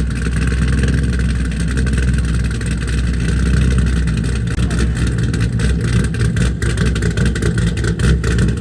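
Car engines running, a steady low rumble, with irregular crackling noise from about five seconds in.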